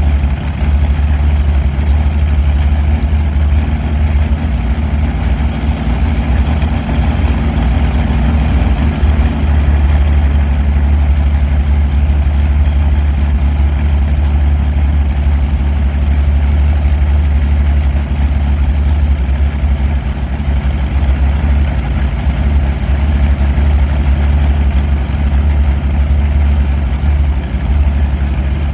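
Allison V-1710 liquid-cooled V-12 aircraft engine running steadily at low speed, a loud deep hum with no change in pace.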